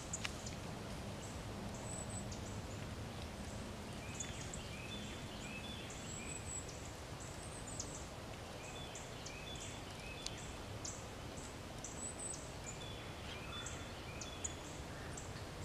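Faint woodland background with birds calling: short high chirps in little phrases of several notes, repeating every few seconds.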